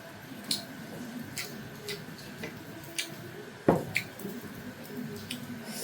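A person chewing food close to the microphone: scattered wet mouth clicks and smacks, with one louder knock a little past halfway.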